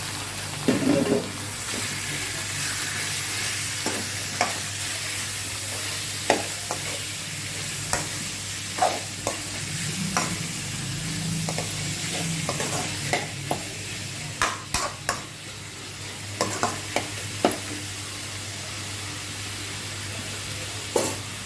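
Chicken pieces frying in a kadai: a steady sizzle, with a spatula scraping and knocking against the pan in irregular clicks as the chicken is stirred.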